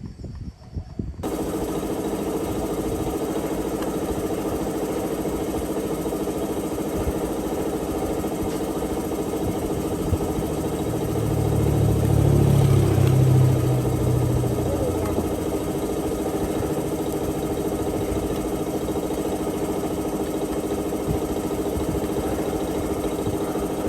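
A motor running steadily with an even hum, starting abruptly about a second in, with a louder low surge about eleven to fourteen seconds in.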